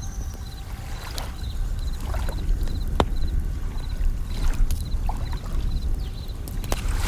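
Wood fire crackling with sharp pops and snaps over a low, steady wash of sea waves, while a bell cricket (suzumushi) chirps in short high bursts that repeat in small groups.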